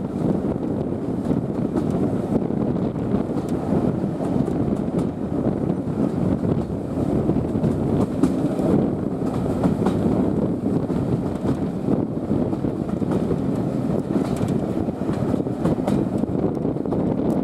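Passenger coach of a steam-hauled train running along the line, heard at an open window: a steady rumble of wheels on rail mixed with wind buffeting the microphone.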